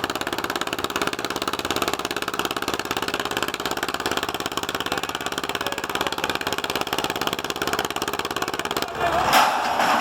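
Ursus C-330 tractor's two-cylinder diesel engine running steadily with an even firing beat. About nine seconds in, the engine sound drops away abruptly and a louder rush of noise takes over.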